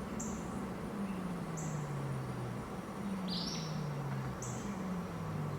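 Birds chirping, short high calls repeating about every second and a half with one louder call about three seconds in, over a low hum that slides down in pitch again and again.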